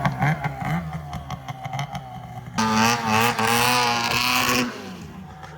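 Snowmobile engine revving, with uneven pulses that fade at first, then a loud steady high-rpm note for about two seconds that drops away near the end.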